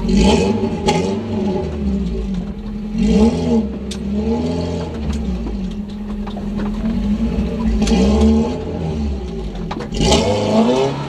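Modified off-road 4x4's engine revving again and again in short bursts, the pitch rising and falling each time, as the vehicle pushes against a steep sand bank at a crawl. The hardest revs come near the start and near the end.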